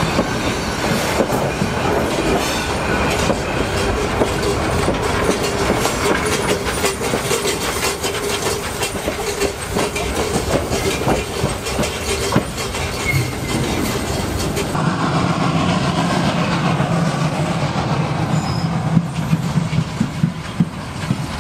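Train running on rails: a rapid, continuous clickety-clack of wheels over the track, with a steady tone over the first half. The sound changes about fifteen seconds in, turning deeper.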